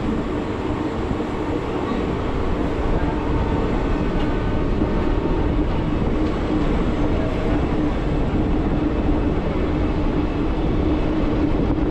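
Passenger express train running out of a station, heard from an open coach door: a steady rumble of wheels on rails with a constant hum, growing slightly louder as the train gathers speed.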